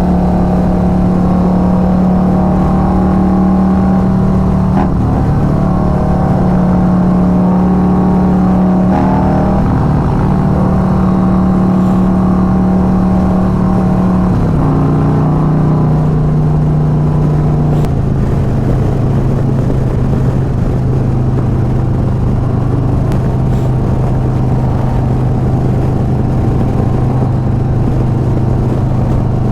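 Harley-Davidson V-twin engine running on the road at cruising speed, with wind and road noise. The engine note holds steady, dips a few times, and settles a little lower about two-thirds of the way through.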